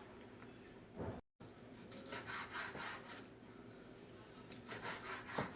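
A kitchen knife cutting food on a wooden chopping board with a back-and-forth sawing stroke, the blade rasping against the wood in repeated strokes.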